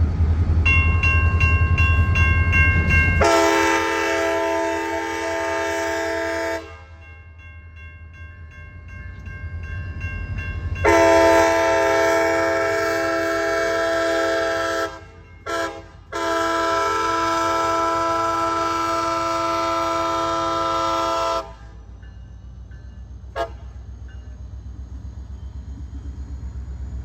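Freight locomotive sounding its multi-chime air horn for a grade crossing: two long blasts, a short one and a final long one, over the steady rumble of the diesel engine and train. A crossing bell rings briefly at the start.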